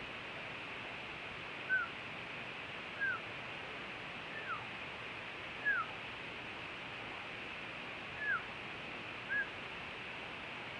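A parakeet giving short, single chirps that fall in pitch, about six spread out a second or two apart, over a steady background hiss.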